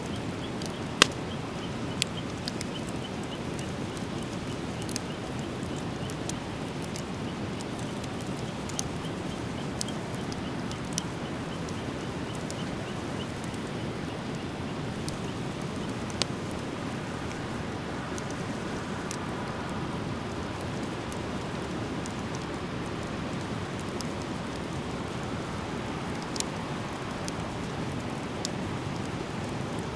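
Driftwood fire burning, with scattered sharp crackling pops over a steady hiss; the loudest pop comes about a second in.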